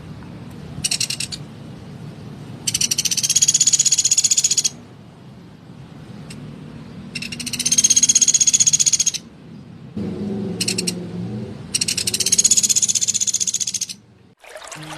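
Pelatuk beras woodpecker calling: three long, fast, harsh rattling calls of about two seconds each, with short rattles before the first and the last.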